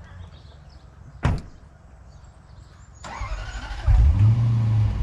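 A sharp knock about a second in. About three seconds in, a dirt bike engine is cranked briefly, catches and runs steadily and loudly.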